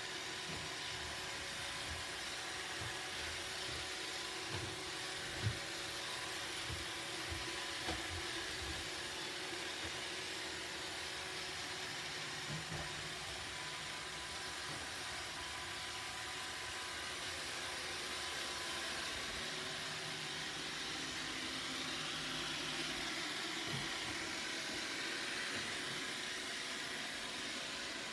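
Roomba robot vacuum running with a steady whir, with a few short low knocks in the first several seconds, the loudest about five seconds in.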